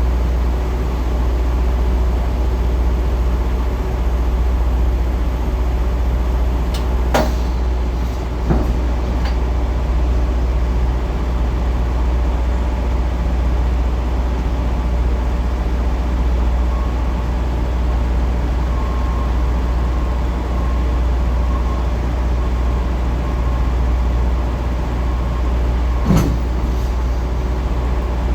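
Steady low rumble of semi trucks running at a loading dock, with a few sharp knocks: two about a quarter of the way in and one near the end.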